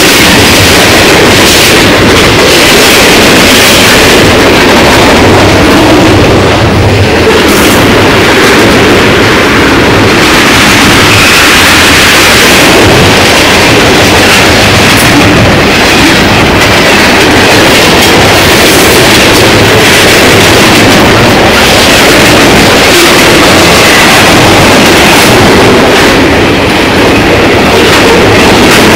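Freight train cars (tank cars and covered hoppers) rolling past at very close range: a loud, unbroken rumble and clatter of steel wheels on the rails, near the point of overloading the microphone throughout.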